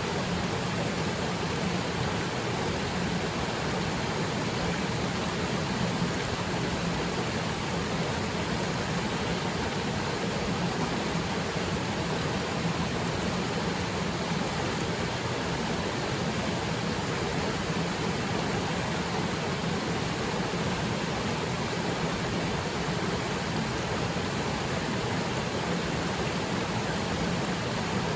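Small waterfall pouring into its plunge pool: a steady, even rush of falling water with no change.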